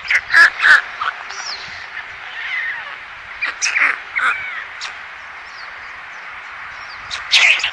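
Birds calling: harsh squawks and short chirps, loudest near the start, around the middle and again near the end, over a steady background hiss of bird chorus.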